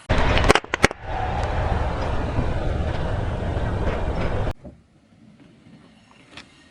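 Car rolling over objects: a few sharp cracks of things being crushed under the tyre, then the steady rumble of the car rolling on, which cuts off suddenly about four and a half seconds in.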